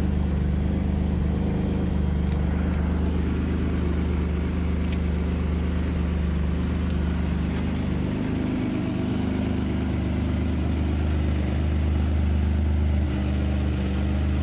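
Turbocharged Infiniti G35's 3.5-litre V6 idling steadily, running on a new starter and battery fusible link.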